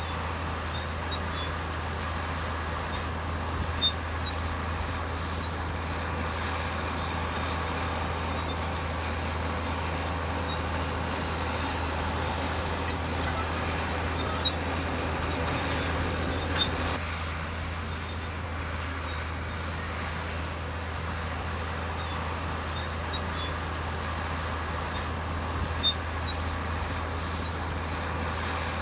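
Komatsu D65EX bulldozer's diesel engine running steadily under load, with a few sharp knocks over it. The engine eases off slightly about seventeen seconds in.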